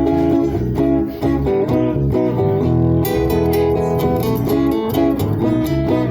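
Acoustic guitar strumming chords in an instrumental passage between sung lines of a song, played live; the strokes turn crisper about halfway through.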